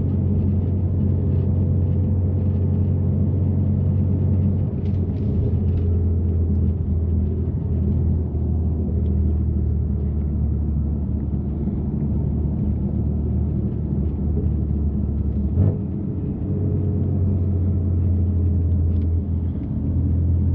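BMW F80 M3's twin-turbo straight-six, with catless downpipes and an always-open valved exhaust, droning steadily at low revs while cruising. About three-quarters of the way through comes a short knock, and the drone drops away for a moment before it returns.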